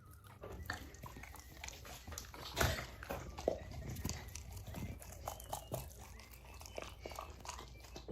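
A dog biting and chewing on a toy: irregular crunches and clicks, the loudest a little over two and a half seconds in.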